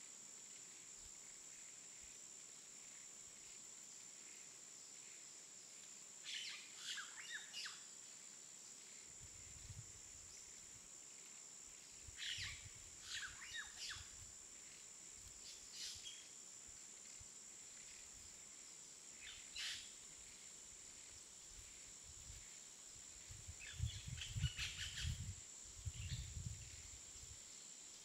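Near-silent room tone with a faint steady high whine, broken every few seconds by short clusters of faint bird chirps. The chirps are busiest near the end, along with a few soft low rumbles.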